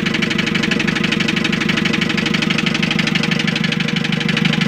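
Hyundai H100 van engine running with a hard, rapid, evenly repeating knock. The knock comes from inside the engine after the van was driven through floodwater, and the mechanic takes it as damage serious enough that the engine must be pulled and overhauled.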